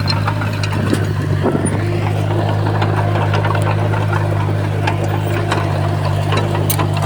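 Komatsu bulldozer's diesel engine running at a steady drone, with scattered light clicks and knocks.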